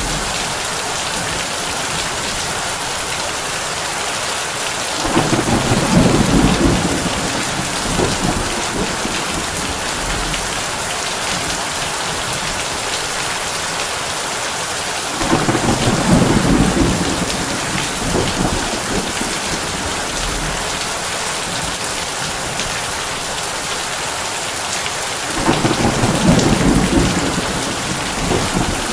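Heavy rain drumming on a tin roof as a steady hiss, with three low rolls of thunder, each about two seconds long and roughly ten seconds apart.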